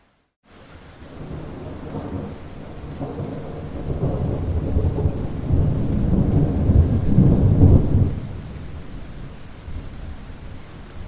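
Rolling thunder rumbling over steady rain, building over several seconds to its loudest about three-quarters of the way through, then fading back to the rain. A brief moment of dead silence comes just before it starts.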